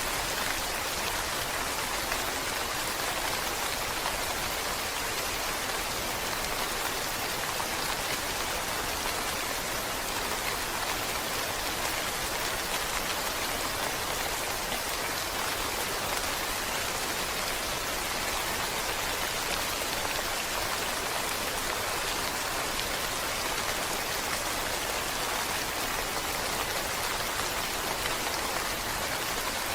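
Steady rainfall: an even, unbroken hiss of rain with no pauses or separate events.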